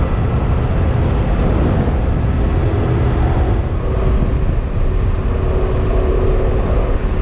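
Motorcycle riding at speed: the engine runs steadily under a heavy, even low rumble of wind and road noise, with a faint steady engine tone coming through about four seconds in.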